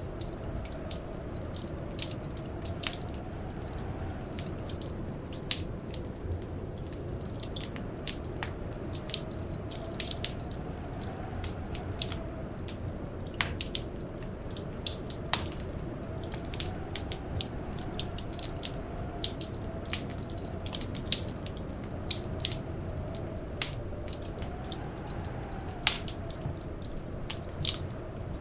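Wood fire crackling in a fireplace: frequent, irregular sharp pops and snaps over a steady low rumble. A faint wavering howl of blizzard wind runs beneath.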